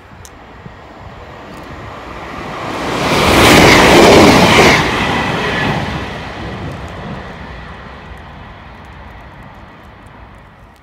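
Passenger train passing through the station at speed: a rush of wheels and engine that builds, peaks loud about three and a half to five seconds in, then fades away.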